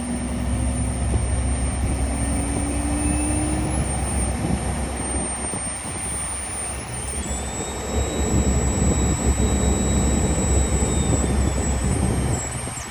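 Learjet 60's right-hand (number 2) Pratt & Whitney Canada PW305A turbofan running at high power in a ground run-up, a steady heavy rumble with a high whine. About halfway through the sound swells and a higher whine rises, easing off again near the end.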